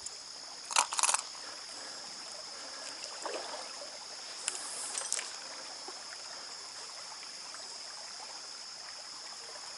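Trout stream flowing steadily, with a few short, sharp metallic clicks of fishing tackle being handled: a pair about a second in and another pair around five seconds in.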